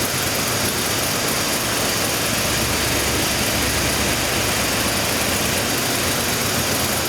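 383 cubic inch LT1 small-block V8 running steadily on an engine dyno, at an even, unchanging speed.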